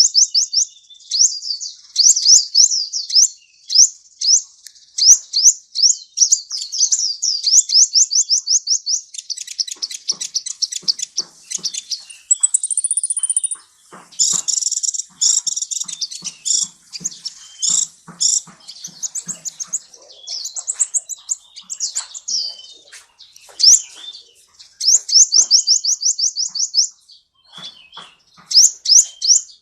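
Sunbird ('kolibri' in Indonesian bird-keeping) singing: fast runs of very high, thin chirps and trills, broken by short pauses. There is a brief high buzzy note about twelve seconds in, and harsher, scratchier phrases through the middle.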